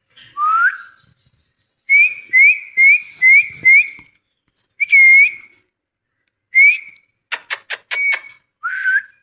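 Ringneck parrot whistling: a rising whistle, then a quick run of five short upward-flicking whistles and a few single ones, with a rapid string of sharp clicks near the end.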